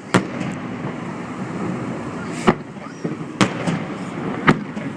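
Aerial fireworks shells bursting in a festival finale: four sharp booms at uneven gaps of about one to two seconds, over a steady noisy background between them.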